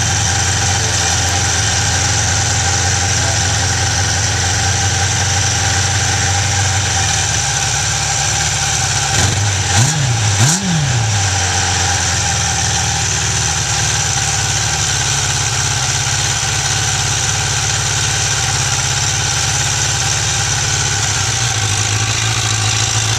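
1996 Suzuki Katana 600's inline-four engine idling steadily while still warming up after a cold start, with two quick throttle blips about ten seconds in, each rising and falling in pitch before it settles back to idle.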